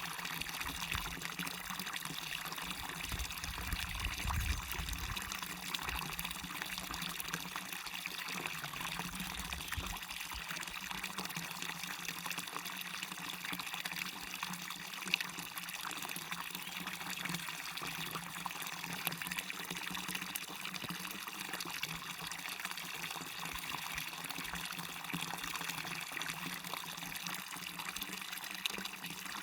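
Waterfall on a stream, water running and splashing in a steady, even rush.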